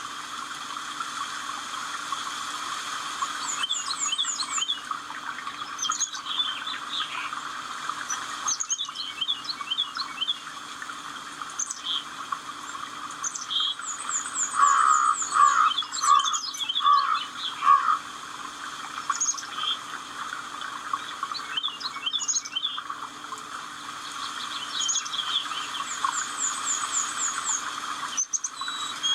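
Several birds singing and calling together, with a high, thin, quickly repeated song phrase coming back about every eleven seconds and louder, lower calls in the middle; a faint steady hum lies underneath.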